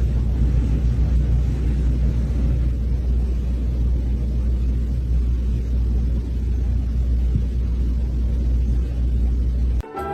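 Loud, steady low rumble that cuts off suddenly near the end, when orchestral music with brass starts.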